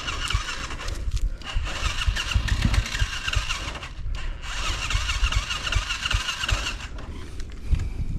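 Dirt bike engine being cranked over to start, in runs broken by short pauses about a second and about four seconds in, ending near seven seconds, over low rumbling thumps.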